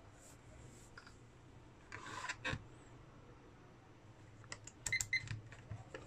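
Short clicks and rattles of a multimeter's rotary dial and test probes being handled, in two brief clusters, over a faint steady low hum.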